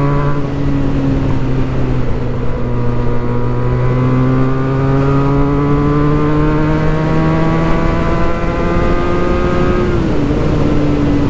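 Benelli 302S's 300 cc parallel-twin engine running through a Yoshimura exhaust under steady load, its pitch rising slowly for several seconds as the bike gathers speed. The pitch drops a little near the end and then holds.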